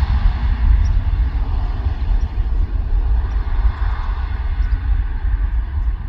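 Jet airliner engines running in a steady, noisy roar with a heavy low rumble. The higher part of the roar slowly thins out near the end.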